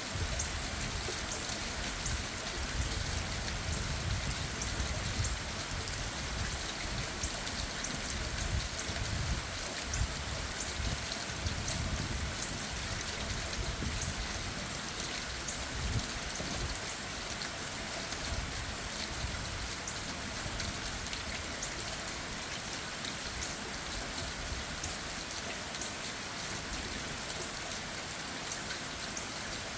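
Steady rain pattering on leaves and ground, many small drop taps over a constant hiss, with an uneven low rumble that eases off about two-thirds of the way through.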